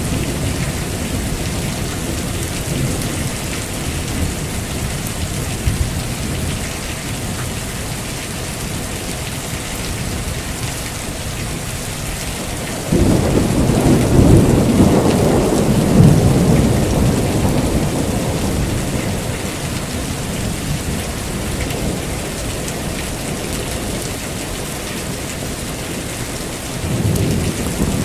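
Heavy rain falling steadily with thunder: a loud clap breaks in about halfway and rumbles away over several seconds, and another rumble begins near the end.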